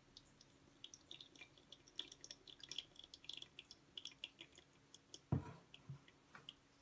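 Freshly poured coffee dripping through a paper drip bag into a glass server: many faint, irregular ticks and crackles. About five seconds in, a thump as the stainless gooseneck kettle is set down on the table.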